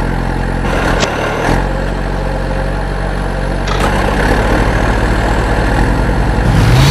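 Vehicle engine idling steadily, with a few sharp clicks about a second in, a second and a half in and near four seconds in. The engine grows a little louder over the last few seconds.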